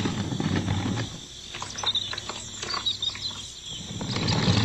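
Background ambience with birds chirping over a low steady hum; the hum drops away about a second in.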